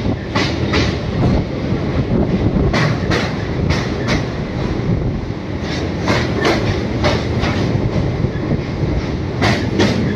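Train wheels running over a steel truss rail bridge, heard from the doorway of a moving coach. A steady rumble is broken by sharp clicks over the rail joints every second or so, often in pairs.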